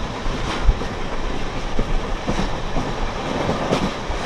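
Passenger train running along the track: a steady rumble and rush, with a few sharp clacks of the wheels over rail joints.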